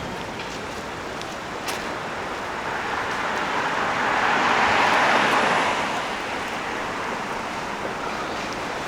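Road traffic ambience: a vehicle passing, its rushing noise swelling and fading away, loudest about five seconds in.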